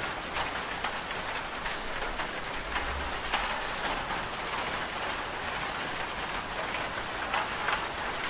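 Steady rain: a dense, even hiss of falling rain with many individual drops ticking through it.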